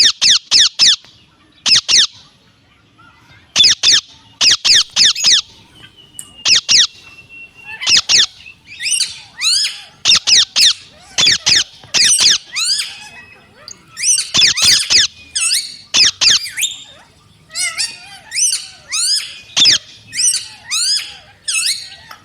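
Pet parrot squawking loudly in quick clusters of three or four harsh high calls, with a short held whistle about six seconds in and more varied chattering calls in the second half.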